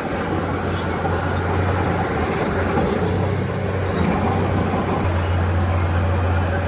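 Diesel engine of a Komatsu D31P crawler bulldozer running steadily under work, a deep low drone, with a few light metallic clinks now and then.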